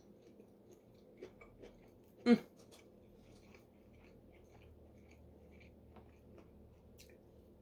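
A person eating: quiet chewing with small mouth and handling clicks, and one sharp, loud click a little over two seconds in.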